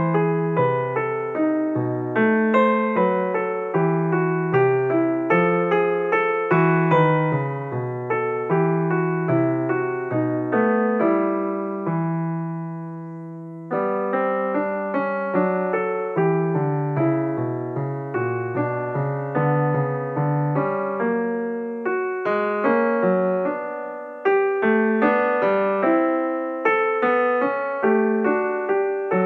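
Solo piano background music, a steady run of notes and chords, with one held chord dying away near the middle before the playing picks up again.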